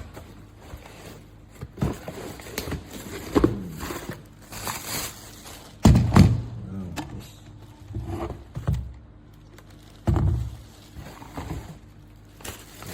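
A boxed electric kettle being unpacked: cardboard and packing material handled with irregular rustling, scraping and knocks, and heavier thumps about six and ten seconds in.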